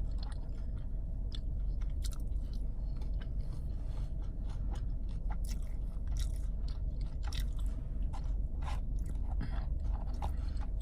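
A person chewing and biting food close to the microphone, with small crunches and wet mouth clicks scattered throughout, over a steady low hum.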